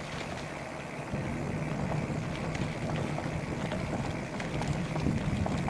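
Wind rushing over the microphone of a camera carried on a bicycle ride into a headwind, with a steady low rumble and scattered small clicks and rattles from the bike on a rough trail.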